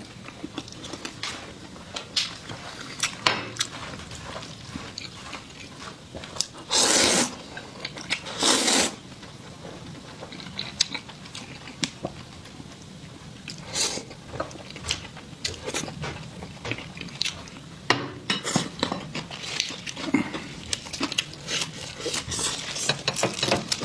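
Eating at a table: utensils clicking and scraping against dishes, mixed with biting and chewing. Two louder noisy sounds, each about half a second long, come around seven and nine seconds in.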